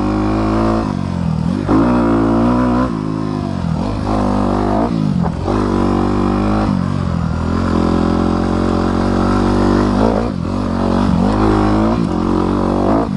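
Honda CRF250R dirt bike's single-cylinder four-stroke engine being ridden off-road, the pitch rising and falling again and again as the rider opens the throttle, shifts and rolls off.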